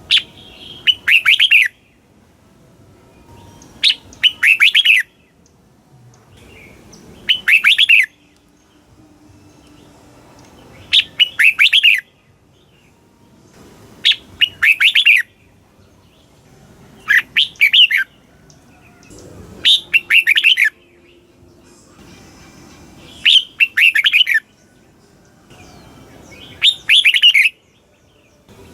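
Red-whiskered bulbul singing: a short, loud phrase of quick whistled notes, repeated about every three seconds, nine times.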